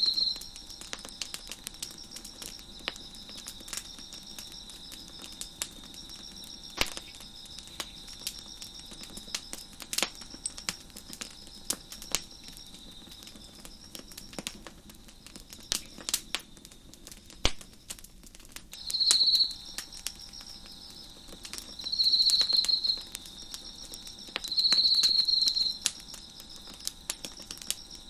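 Wood fire crackling with scattered sharp pops, over crickets chirping in steady high pulses. A closer cricket gives three loud trills, each about a second long, in the second half.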